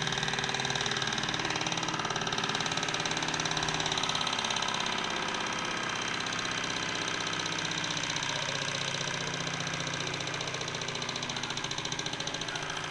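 Small model Stirling engine running steadily with a rapid, even mechanical clatter.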